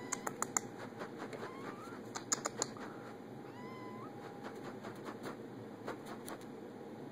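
A cat mewing several times: short, thin calls that slide up and down in pitch. Clusters of sharp clicks just after the start and again about two seconds in stand out as the loudest sounds.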